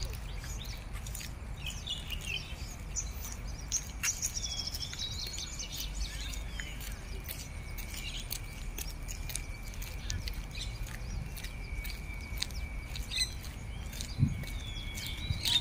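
Birds chirping and calling in short bursts among trees, over a thin steady high tone and a low rumble.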